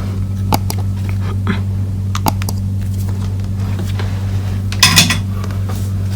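Soldering iron tip being knocked and scraped against its metal stand and tip cleaner to clean it of stuck solder: a few sharp metallic clinks, with a louder cluster of clinks about five seconds in. A steady low electrical hum runs underneath.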